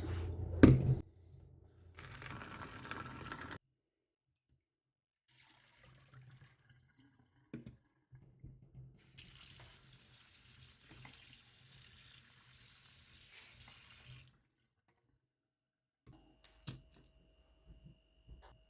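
Tap water running into a sink as melon seeds are rinsed: a short spell about two seconds in and a longer one of about five seconds in the middle. A sharp knock right at the start, and a few light clicks of handling.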